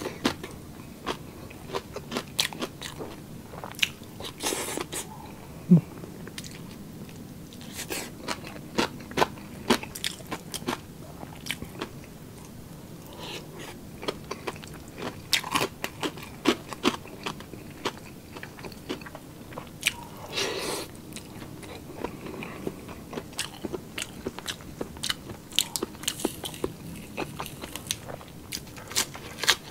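Close-miked chewing of crisp food, chicharon (pork crackling) and lettuce, with a steady run of sharp crunches and a few louder bites.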